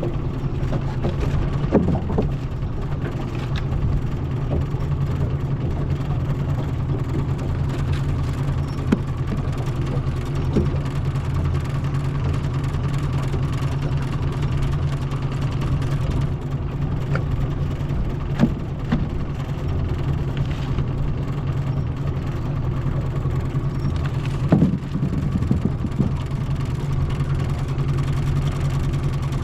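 Small boat's outboard motor running steadily at low speed. A few short knocks sound now and then.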